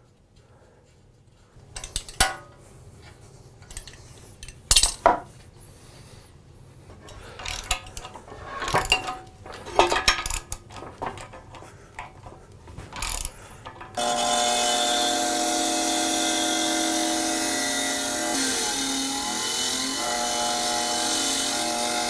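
Scattered knocks, clinks and scraping as parts of an antique foot-powered mortiser are handled. About fourteen seconds in, a power tool starts suddenly and runs steadily and loudly to the end.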